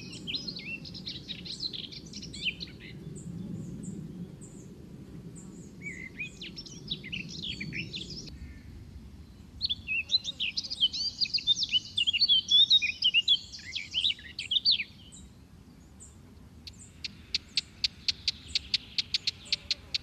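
Small birds chirping and twittering in several bursts of song, the busiest stretch in the middle. Near the end comes a fast, even run of sharp ticking calls, about five a second.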